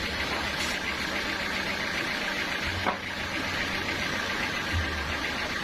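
An engine running steadily at idle, with one short sharp knock about three seconds in.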